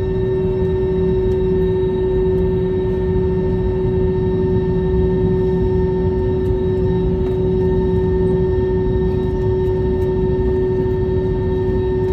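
Airliner cabin noise: a steady low rumble with a constant whine held over it.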